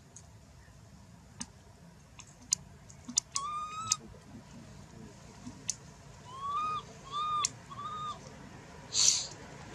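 Baby monkey crying in short, arched, rising-then-falling coos, one about three and a half seconds in and a run of three more a little later. Scattered sharp clicks throughout, and a brief hissing burst near the end.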